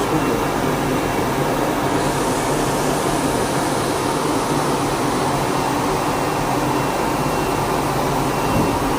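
Cutting plotter running as its knife cuts thick cardboard: steady, even machine noise with no pauses.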